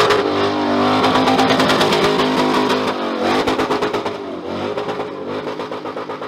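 Burnout car's engine held at high revs while its rear tyres spin and smoke, the pitch wavering up and down as the throttle is worked. It grows somewhat quieter in the second half.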